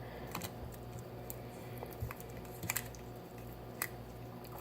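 Faint, scattered crackles and clicks of a plastic wrapper being opened on a Warheads sour hard candy.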